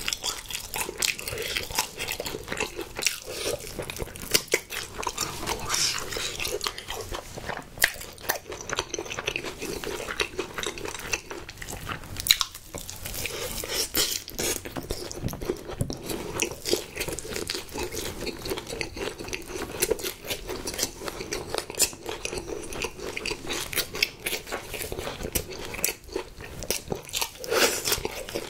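Close-miked chewing and crunching of sauce-glazed spicy fried chicken, with dense, irregular crackles throughout.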